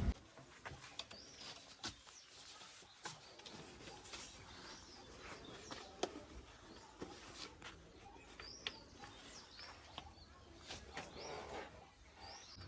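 Faint bird chirps: short calls that rise and fall, repeating irregularly about once a second, with scattered small clicks in between.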